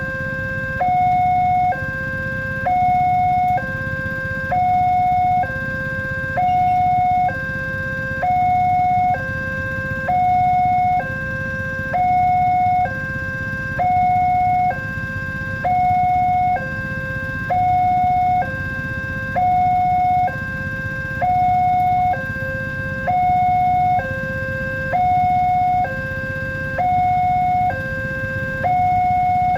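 Level-crossing warning alarm sounding a steady two-tone call, alternating high and low about once a second, signalling that a train is approaching and the barrier is closing or closed. A constant low rumble runs underneath.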